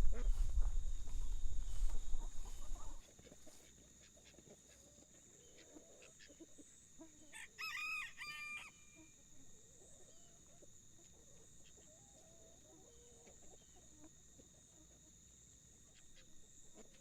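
A rooster crows once, about seven and a half seconds in, a single crow lasting about a second. A low rumble fills the first three seconds before it.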